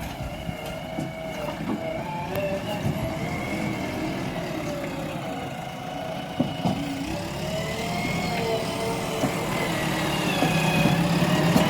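Diesel engine and hydraulics of a JCB backhoe loader working, the pitch rising and falling as the revs change. There are a couple of knocks about six seconds in, and it grows louder near the end.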